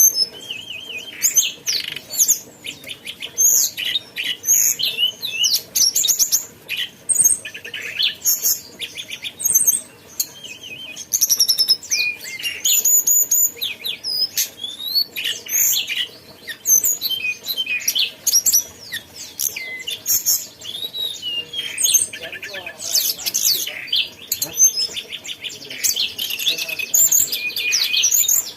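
A tledekan gunung songbird singing a fast, varied, nearly continuous song of high chirps, rapid trills and sweeping whistles.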